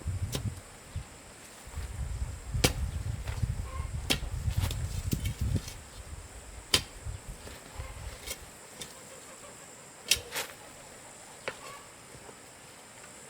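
Irregular sharp knocks and snaps, about seven over the stretch, two of them close together near the end, over a low rumble that fades out about two-thirds of the way in and a steady high-pitched hum.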